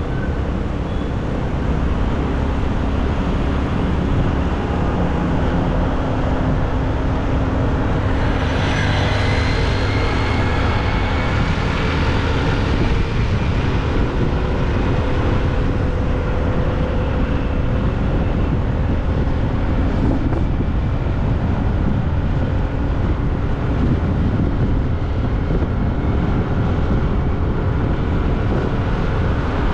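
Motorbike riding on the road: a steady, loud rush of engine, road and wind noise. About eight seconds in, a rising engine whine climbs for a few seconds.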